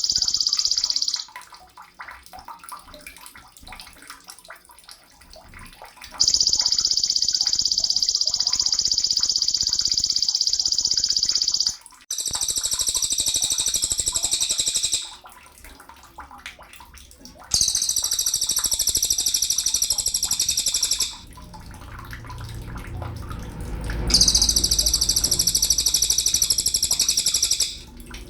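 Sogon bird singing in long, unbroken high-pitched phrases of several seconds each, with short pauses between. About twelve seconds in, the phrases change to a higher, fuller type.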